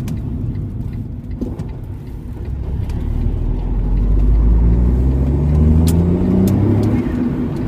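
Smart Roadster's small turbocharged three-cylinder engine pulling under acceleration over road rumble: about three seconds in the revs climb steadily and the engine grows louder, then it eases off near the end.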